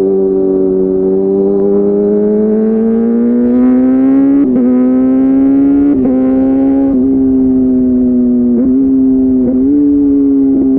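Kawasaki ZX-6R 636's inline-four engine running at steady, fairly high revs through an SC Project slip-on exhaust. Its pitch rises slowly over the first four seconds or so, then eases back slightly.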